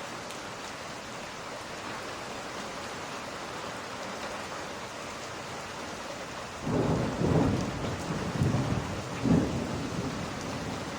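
Steady rain, then a little over halfway through a low rumble of thunder rolls in, swelling three or four times before dying back into the rain.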